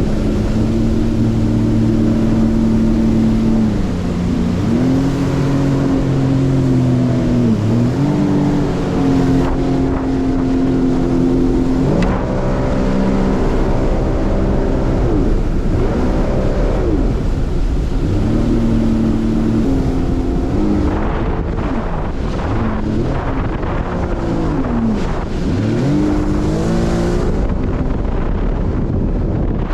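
Small boat engine running hard at speed, its pitch dropping and climbing back several times as the throttle is eased and reopened, over a steady rush of wind and water.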